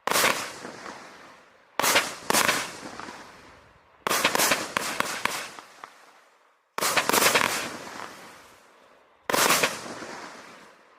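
Vivid Pyrotechnics Havoc 36-shot 30 mm firework cake firing: sharp bangs every two seconds or so, with a quick cluster of bangs about four seconds in, each dying away over a second or two.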